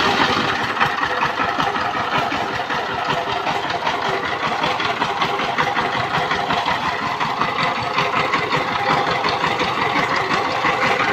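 Power tiller's single-cylinder diesel engine running steadily with a rapid, even knocking beat.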